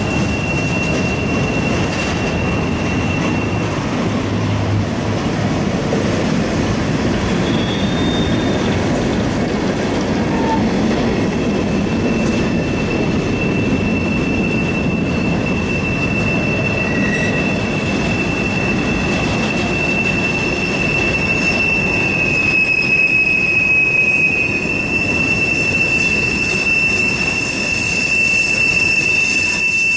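A train rolling past, its wheels squealing in one steady high-pitched tone over the low rumble of the passing cars.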